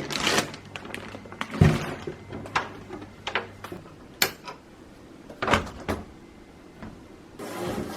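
Kitchen items being handled: a string of separate knocks and clatters, some like a cupboard or door closing. A steady rush of running water starts near the end.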